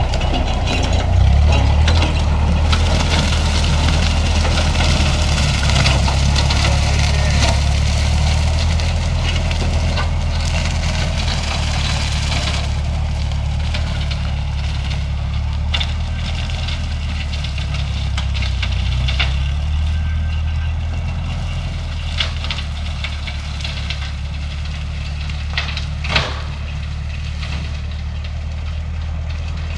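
Old Ferguson tractor engine running steadily while mowing with a bush hog. A few sharp cracks come through in the last third, the loudest near the end.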